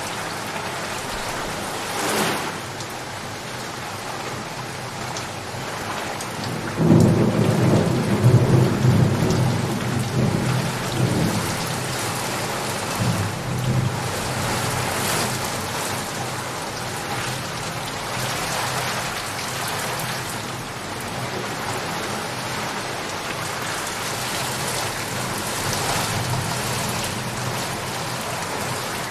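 Steady rain falling, with a rumble of thunder breaking in about seven seconds in; it is loudest for a few seconds, then rolls away over several more.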